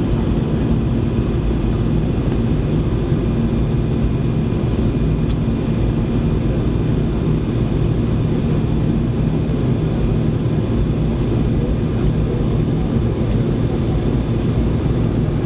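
Steady engine and airflow drone heard inside the cabin of an Airbus A320 jet airliner in flight, a constant low rumble with a few faint steady tones over it.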